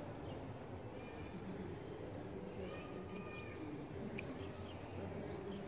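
Outdoor ambience with small birds chirping now and then over a steady low background, with faint distant voices.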